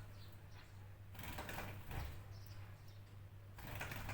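Faint wild bird chirps, a few short high notes, over a steady low hum, with two longer spells of rushing noise.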